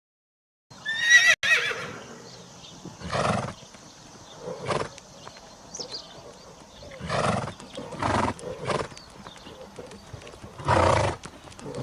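An animal's call: a high, wavering cry about a second in, then a run of short, breathy snorts every second or two.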